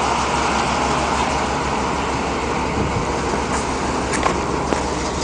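1997 Chevy Cheyenne 3500 HD's 7.4-litre (454) big-block V8 idling steadily.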